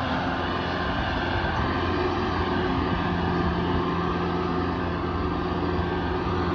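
A vehicle engine running steadily at a constant speed, with an even drone.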